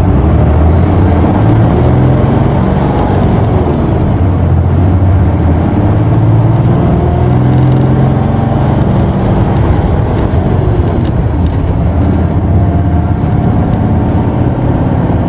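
Isuzu Erga city bus's six-cylinder turbo diesel, heard from inside the cabin, pulling hard away from a stop. It revs up through the gears, the pitch climbing in each gear and dropping back at each shift.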